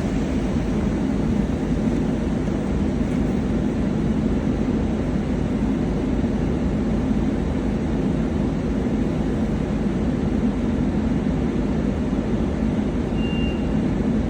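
Car wash machinery running: a steady low rumble with a hiss over it, and one brief high tone near the end.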